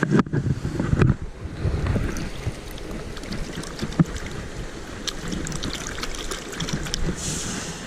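Shallow stream water running and trickling, with small splashes and clicks. Low rumbling wind buffets hit the microphone in the first couple of seconds.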